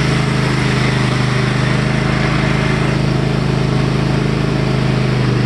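Cub Cadet XT1 LT46 riding lawn mower engine running steadily after a good start, now that its cracked starter has been replaced.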